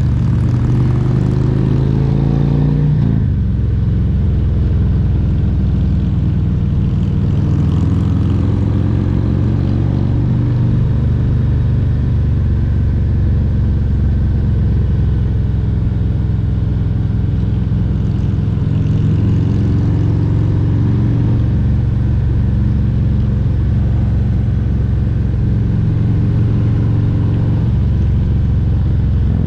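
Harley-Davidson Road Glide Special's Milwaukee-Eight 114 V-twin engine running under way. It rises in pitch over the first few seconds, drops about three seconds in, then holds a steady cruise.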